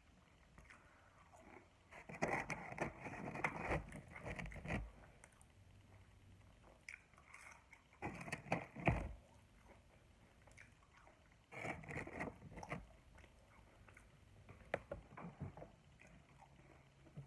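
Close-miked eating: bites and chewing, with bursts of wet, crackly mouth sounds in several clusters a few seconds apart and quiet chewing between.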